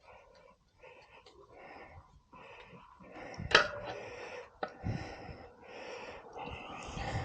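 A man breathing hard in short puffs as he strains on a rim-straightening tool to bend a motorcycle rim back. A sharp knock about three and a half seconds in, and a lighter one a second later.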